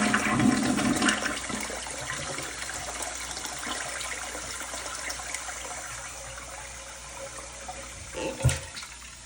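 Toilet flushing. Water rushes loudly at first, then fades to a steady draining hiss, the bowl going down freely now that an air-compressor plunger has cleared a toilet-paper clog. There is a short knock near the end.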